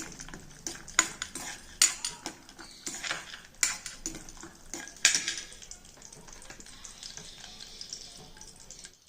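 A spoon stirring and scraping cashews, almonds and walnuts in ghee in a kadai, with repeated clicks and knocks against the pan over a light sizzle as the nuts roast on a low flame.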